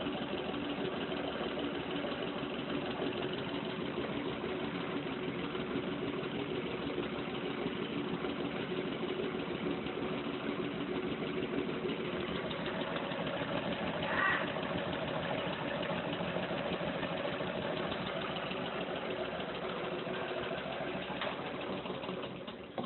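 Small Stirling engine running steadily with an even mechanical hum. A brief rising squeak comes about two-thirds of the way through, and the sound falls away at the very end.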